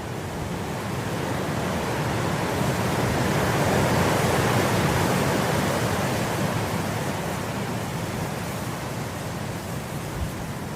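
Wind blowing through grass, a steady rushing that swells into a gust a few seconds in and eases off again.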